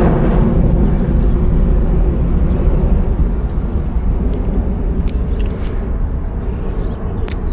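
Low-flying airliner passing overhead, its engine rumble slowly fading as it moves away.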